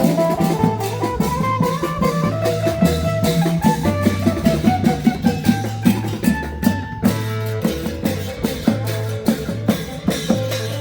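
Festive Thai band music: drums keep a steady driving beat under a pulsing bass line and a held melody.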